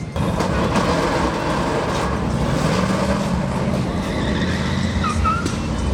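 Car engine running steadily, with a couple of short high chirps near the end.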